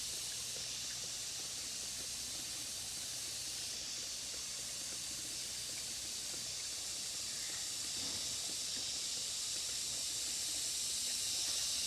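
A steady high-pitched hiss throughout, with no distinct events.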